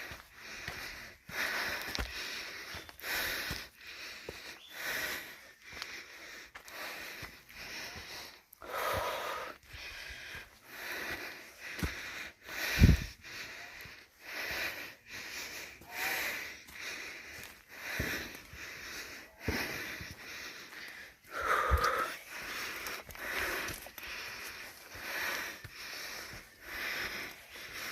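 A person breathing hard and wheezing, with a loud rasping breath about every one and a half seconds, from the strain of a grueling uphill hike. A sharp low thump about halfway through is the loudest sound.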